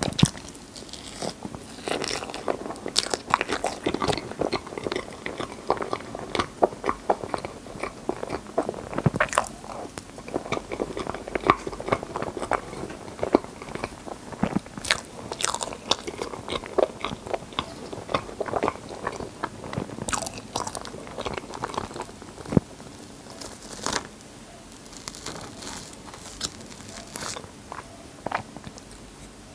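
Close-miked eating: a person chewing and biting food, with many small mouth clicks and smacks, thinning out near the end.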